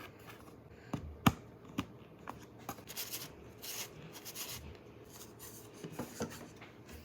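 Hands handling small hard objects: a series of sharp clicks and taps, the loudest about a second in, with scraping rustles in the middle.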